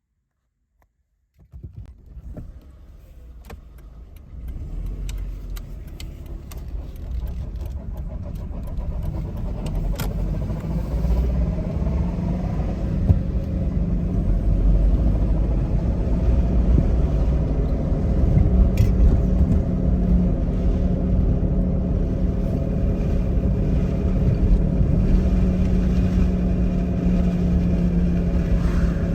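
Car driving, its low rumble of road and drivetrain noise building up over the first fifteen seconds or so as it gathers speed, then running on with a steady hum. This is the abnormal noise that the owner suspects comes from a drive shaft or a sealed ball bearing.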